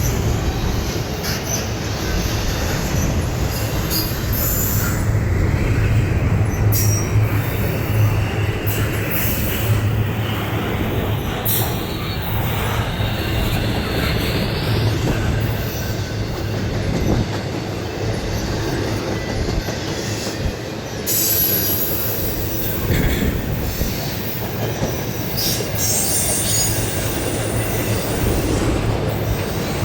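Norfolk Southern intermodal freight train rolling past: a steady rumble of wheels on rail, with high metallic squeals now and then.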